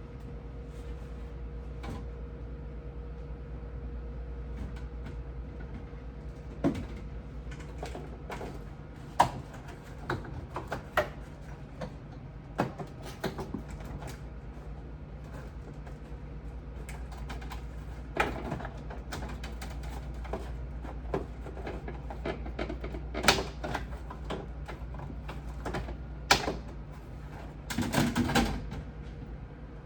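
Irregular clicks, knocks and clattering of refrigerator parts being handled, with a longer clatter near the end, over a steady low hum.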